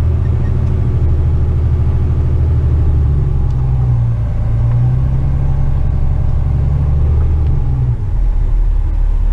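Western Star tipper truck's diesel engine heard from inside the cab, pulling with a load of soil; the engine note wavers about four seconds in and drops to a lower, steady drone near the end.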